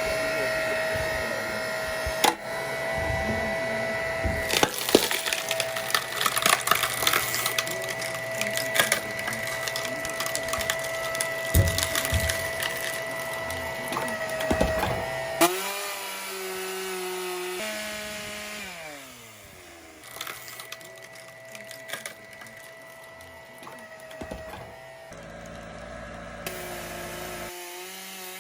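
Oak logs cracking and splintering as a wood-splitting machine forces them apart, over the steady whine of its motor. About halfway through, the cracking stops and the motor's pitch slides down and up.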